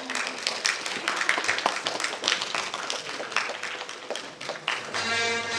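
A small audience clapping unevenly. Music with sustained notes starts near the end.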